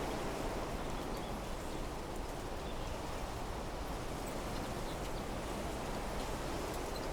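Wind blowing steadily through trees and shrubs, an even rushing rustle of foliage, with a few faint high chirps.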